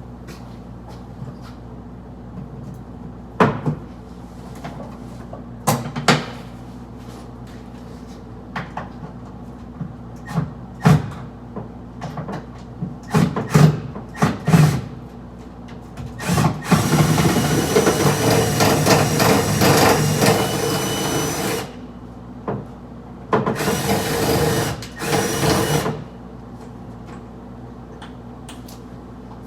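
A power drill running in two runs, the first about five seconds long, the second about three, after a string of separate knocks and clicks from handling tools and the microwave.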